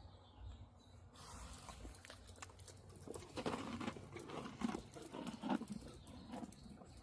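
A horse close by making irregular crunching and clicking sounds, busiest in the second half.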